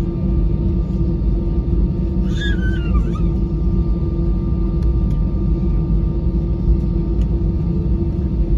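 Cabin noise inside an Airbus A320-214 on the ground after landing: a steady low rumble with a steady hum. A brief, high, wavering sound comes a little over two seconds in.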